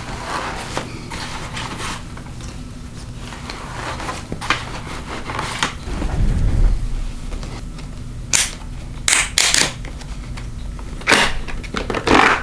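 Handling noise from a motorcycle helmet being tried on: a low rustle about halfway through, then a handful of sharp clicks and knocks of the helmet's shell and fittings in the second half.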